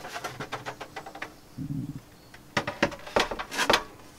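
A series of light clicks and knocks, with a few louder sharp knocks between about two and a half and four seconds in.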